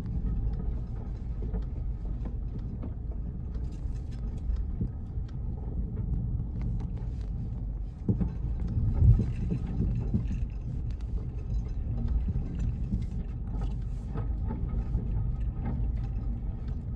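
Car driving: a steady low rumble with light rattles and clicks, and a louder bump about eight to nine seconds in.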